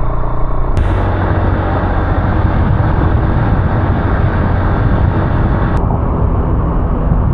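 Motorbike ride: the engine and road and wind noise make a steady, loud rumble. A hissier stretch comes in abruptly about a second in and drops out just as suddenly near the end.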